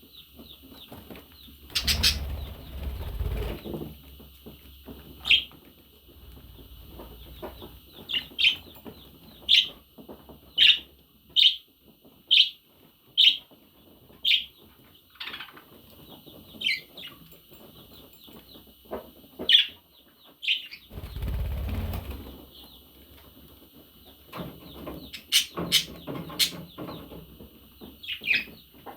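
Pet parrots chirping: a steady high twittering with a run of sharp, evenly spaced chirps about once a second, and more chirps near the end. Two louder bursts of wing flapping, one near the start and one about three-quarters through.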